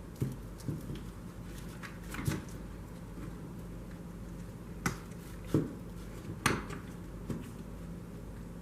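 Scattered light clicks and knocks of small parts and tools being handled, seven or so irregular taps over a steady low hum.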